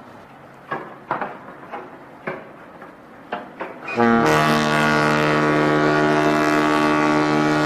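A large ferry's horn starts about four seconds in and sounds one loud, steady, deep blast. Before it come a few short, sharp sounds.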